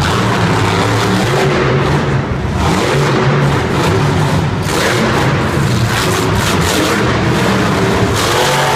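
Monster truck engine running loud, the revs rising and falling as the truck is driven. The engine sound fills the arena, with a rising rev near the end.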